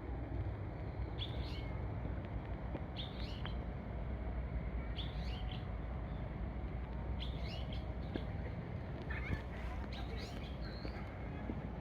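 A bird calling in short groups of chirps about every two seconds, over a steady low rumble.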